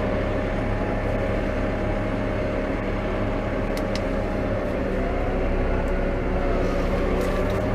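New Holland T5.120 tractor running steadily, a constant engine hum with an even whine over it. Two faint clicks about four seconds in.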